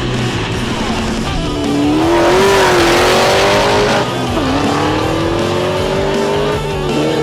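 Chevrolet Camaro accelerating hard on a drag-strip pass, its engine note climbing through a gear, dropping at a shift about four seconds in, climbing again and shifting once more near the end. Rock music with guitar plays underneath.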